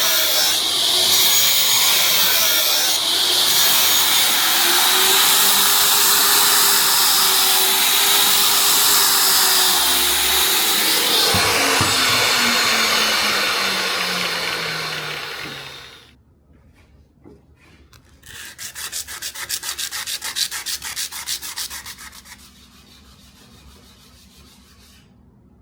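Power sander running against the workpiece with a steady abrasive hiss, its motor tone wavering and then falling as it winds down about fifteen seconds in. A few seconds later comes a spell of fast, even rubbing strokes, like hand sanding or filing.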